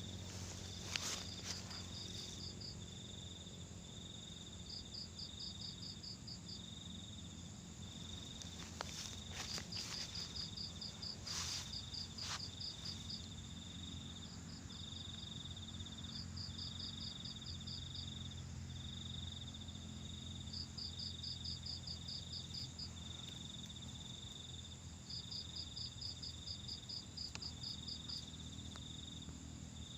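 Night insects, crickets, chirping. One keeps up a high trill in phrases of about a second with short gaps, and another adds rapid pulsed chirps in bursts of a second or two every few seconds. A steady low hum lies underneath, and a few faint knocks come about a second in and again around ten seconds in.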